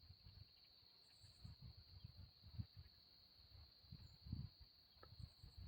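Faint, steady chorus of insects trilling on one high pitch, typical of crickets, with a few short higher chirps and soft low rumbles of wind or handling on the microphone.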